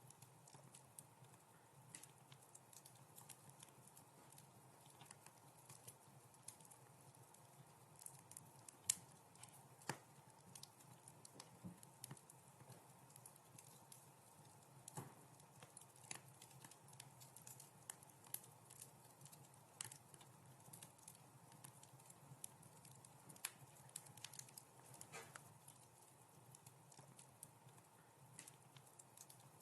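Wood fire crackling in a fireplace: faint, irregular sharp pops and snaps over a low steady hiss, with one louder pop about nine seconds in.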